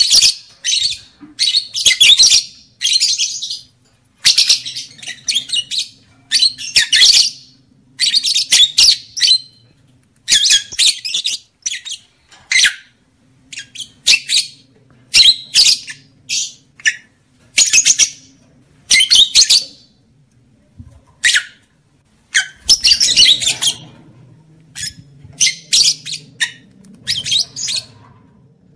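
Lovebird chattering: harsh, shrill squawks and chirps in quick bouts of half a second to a second, with short pauses between them. It is meant as a call that brings lovebirds into breeding condition.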